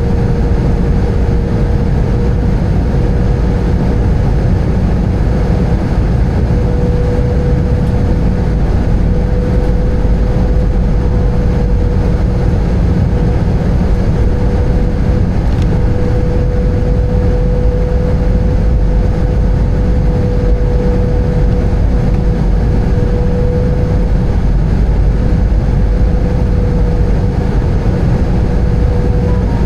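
Airbus A320 passenger-cabin noise: a steady, loud rumble of engines and airflow, with a thin steady hum running through it.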